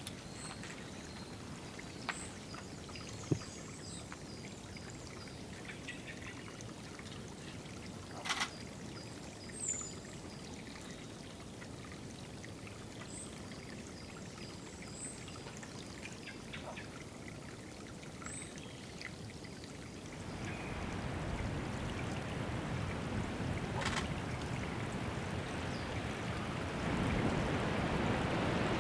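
Water trickling and running steadily, with thin high songbird calls and chirps over it in the first two-thirds; the running water gets louder about two-thirds of the way through.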